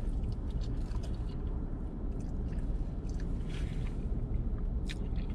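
A man chewing a mouthful of macaroni and cheese, with soft wet mouth sounds and small smacks, over a steady low hum.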